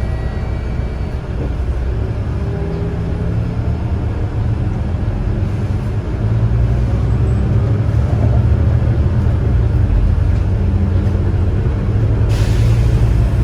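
Volvo B9TL bus's engine and drivetrain running while under way, growing louder about six seconds in. Near the end comes a short hiss of released air.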